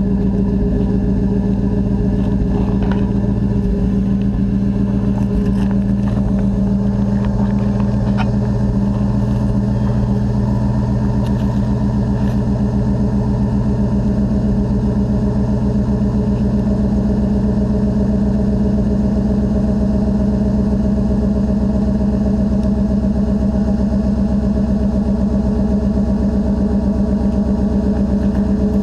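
Original, 412,000-mile engine of a 1991 Chevy full-size pickup idling steadily just after a cold start in 10-degree weather.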